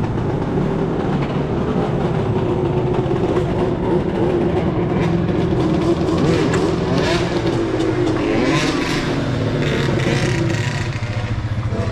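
Dirt bike engine running at steady revs, its note easing down in pitch about eight seconds in.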